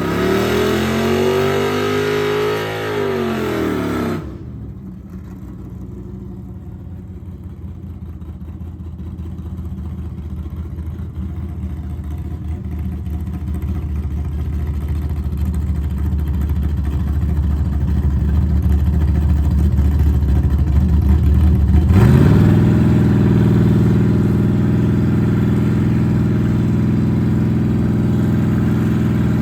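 Small-block Chevy V8 engine. It revs up and down in the first few seconds. Then comes a muffled, low, steady drone that grows gradually louder, and from about three-quarters through a steady, even running note.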